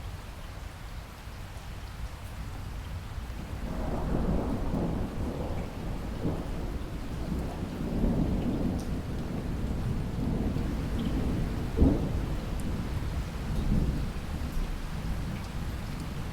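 Steady rain with thunder rolling in about four seconds in. The rumble swells and fades for some ten seconds, with one sharper clap about three quarters of the way through.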